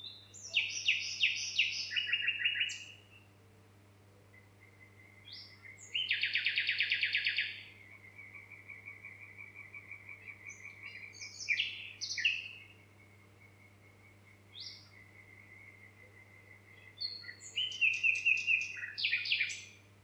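Songbirds singing: several bursts of quick, varied trilled phrases, the loudest a dense buzzy trill about six seconds in. A thin, high steady trill from a second bird runs quietly underneath through much of the middle.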